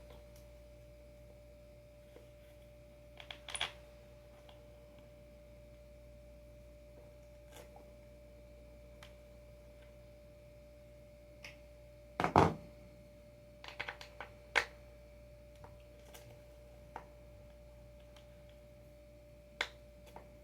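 Scattered clicks and knocks of a hand tool and metal bolts being worked on a skateboard, with one louder clunk about twelve seconds in, over a faint steady hum.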